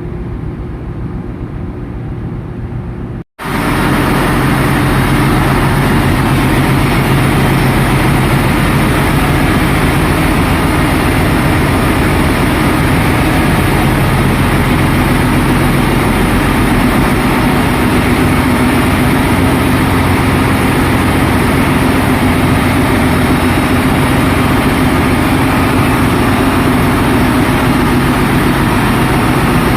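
Ship's engine-room machinery running, a loud steady drone with a low hum. About three seconds in it cuts off briefly and comes back much louder.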